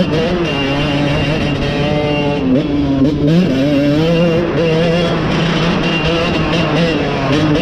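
Dirt bike engine running under changing throttle, its pitch rising and falling, dropping off about two and a half seconds in and then climbing again.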